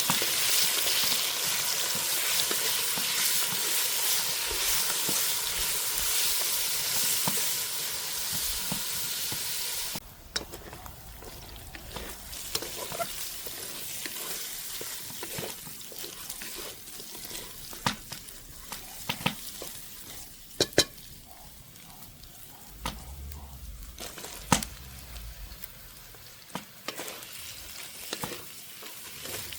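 Food sizzling and frying in a hot pan, a loud steady hiss that stops abruptly about ten seconds in. After that, a quieter background with scattered clicks and knocks of a utensil stirring against the pan.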